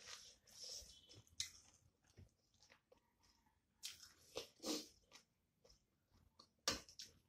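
Close-miked chewing of a mouthful of rice and curry: soft, wet mouth smacks and clicks at irregular intervals, the sharpest near the end.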